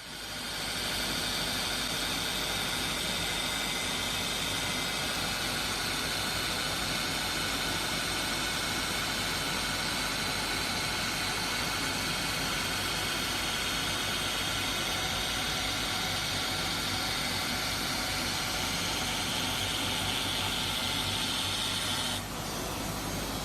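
Polishing machine working a diamond saw blade: a steady hissing grind with steady high-pitched tones in it. About a second before the end the high part drops away, leaving a slightly quieter machine noise.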